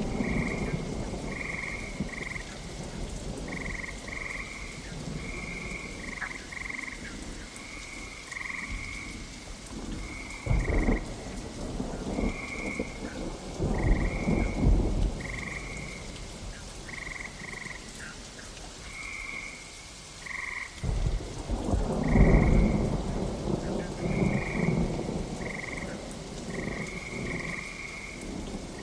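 Steady rain with thunder rumbling several times, the longest and loudest rumble coming about three quarters of the way through. Short, high chirping calls repeat about once a second over the rain.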